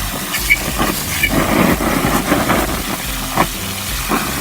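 A steady low mechanical hum, like a motor running, under scattered short knocks and light noise.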